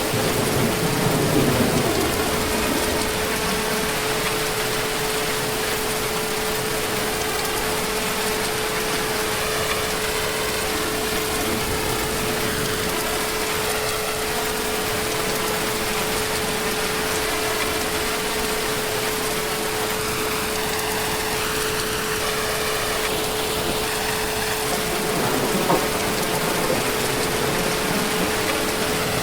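Heavy rain falling steadily, an even hiss, with a faint steady hum under it.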